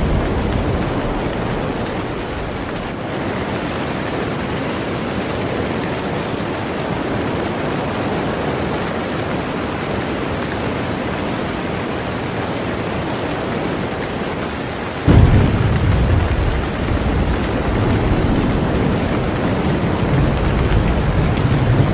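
Heavy rain falling steadily on a boat. About two thirds of the way in, a deep low rumble starts suddenly and carries on under the rain.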